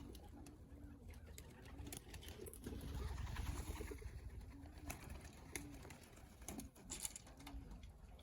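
Racing pigeons cooing: a short, low coo repeated about once a second, with scattered sharp clicks and a brief low rumble about three seconds in.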